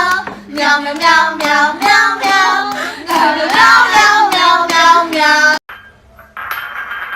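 A high voice singing quick, evenly paced notes over a steady low drone, cut off abruptly about five and a half seconds in. Near the end a steady hiss with a faint high tone follows.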